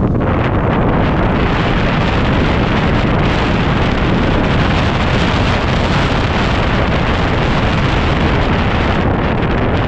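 Heavy, steady wind noise buffeting the microphone while riding, over the running single-cylinder engine of a 2010 Yamaha WR250R dirt bike.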